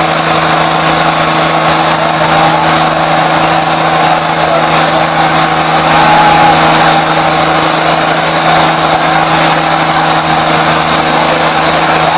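Tractor diesel engines running loud and steady, with an even drone that holds throughout.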